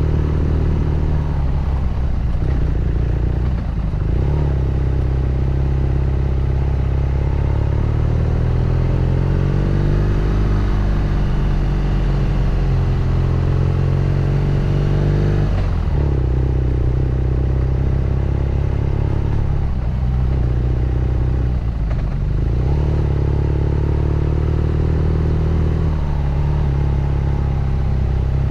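BMW R nineT Scrambler's 1170 cc air/oil-cooled boxer twin running under way, its exhaust note loud and steady. The note drops out briefly and picks up again several times, around two, four, sixteen, twenty and twenty-two seconds in.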